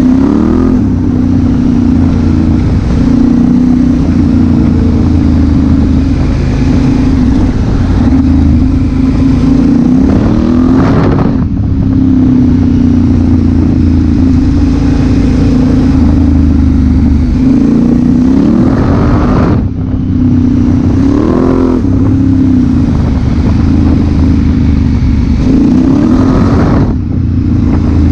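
Honda Africa Twin CRF1000L's parallel-twin engine running under throttle while riding. It holds a steady note, cuts out briefly three times, and rises in pitch after each break, as in gear changes with the revs climbing.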